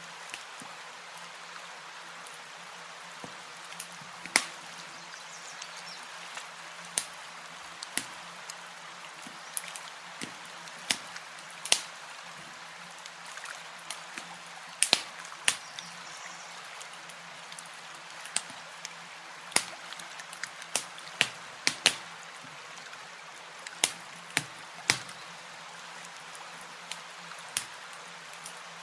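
Campfire crackling: irregular sharp pops and snaps, some in quick pairs, over a steady hiss.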